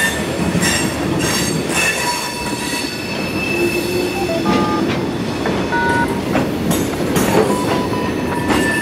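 Florida East Coast Railway freight cars rolling through an industrial spur. The wheel flanges squeal in several high tones that shift and change pitch, with scattered clicks and clanks from the wheels over the track.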